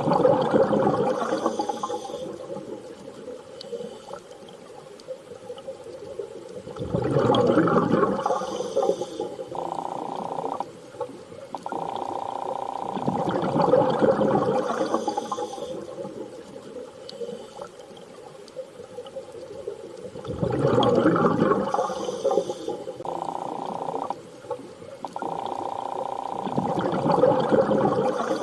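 Underwater ambience: slow swells of rushing water about every seven seconds, with steady mid-pitched tones that start and stop abruptly between the swells, repeating like a loop.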